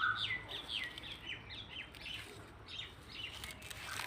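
Bird calling outdoors: a run of quick, falling whistled notes, a few a second, then a second run about three seconds in.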